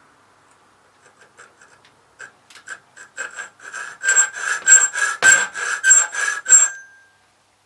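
Hand file cutting into a key blank in quick back-and-forth strokes, about three a second. The strokes start light about a second in and grow louder, then stop near the end with a brief metallic ring.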